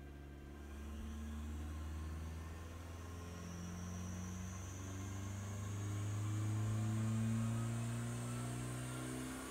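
Turbocharged second-generation Mitsubishi Eclipse engine running on a chassis dyno, its revs climbing slowly and steadily with a high whine rising along with it. The engine note drops near the end.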